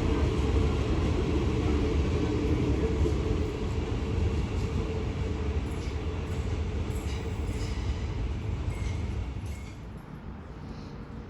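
Train running past on the rails: a heavy, steady low rumble that gradually fades as it moves away, dropping off about ten seconds in, with faint high squeaks and ticks from the wheels and track near the end.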